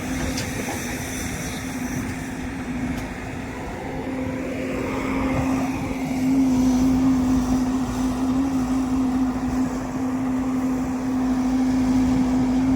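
Heavy diesel engine running steadily with a constant hum, getting louder about halfway through.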